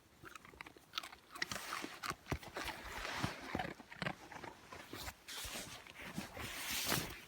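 Irregular crunching and scuffling in snow, a run of quick faint crackles and clicks.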